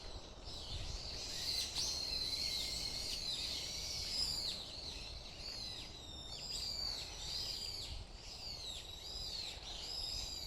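Several songbirds chirping and singing at once, a dense, continuous run of short high calls and quick downward sweeps that overlap one another. A low steady rumble sits underneath.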